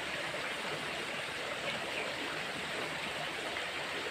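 Steady rushing of flowing water, an even noise with no distinct splashes or hits.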